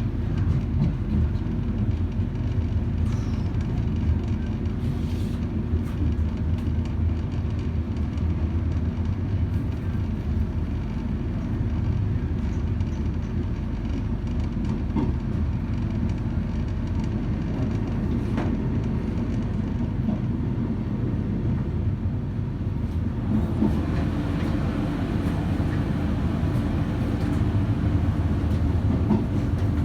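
Passenger train running steadily, a low rumble of wheels on track heard from inside the carriage; about three-quarters of the way through the noise grows brighter and a little louder.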